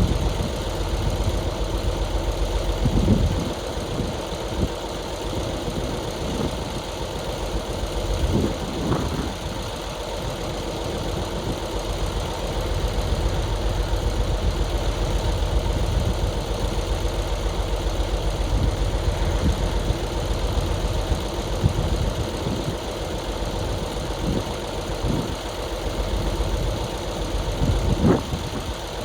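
Heavy-equipment diesel engine running steadily, with a few short clunks along the way.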